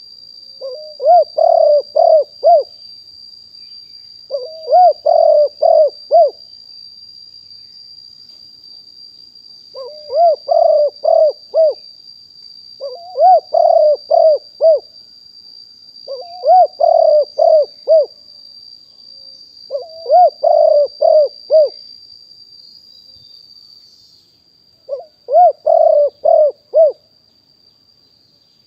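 Spotted dove cooing: seven phrases of four or five quick notes each, repeated every two to four seconds. A steady high-pitched whine runs underneath.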